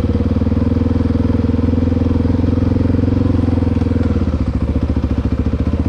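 Dirt bike engine running under throttle while riding, its firing pulses steady; the note drops a little about four seconds in as the throttle eases.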